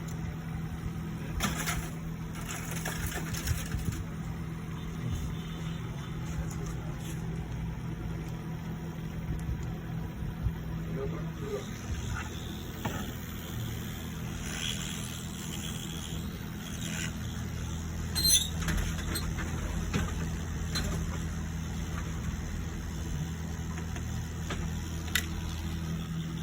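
Steady low electrical hum of running bench equipment, with a few sharp clicks and taps of small tools on a circuit board.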